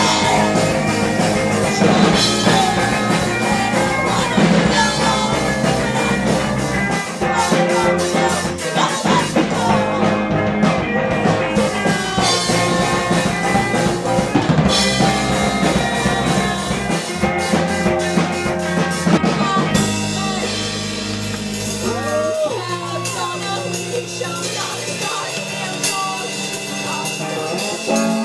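Rock band playing live, with drum kit and electric guitar. About twenty seconds in, the arrangement thins and the deep bass drops away while the band keeps playing.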